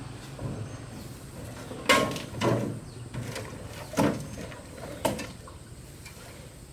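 Four knocks at uneven spacing over a steady low background, the first the loudest.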